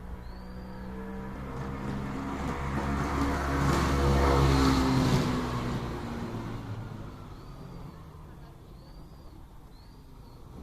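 A motor vehicle passing by: its engine noise swells to a peak about four to five seconds in, then fades away. Short high chirps from a bird are heard once near the start and a few times near the end.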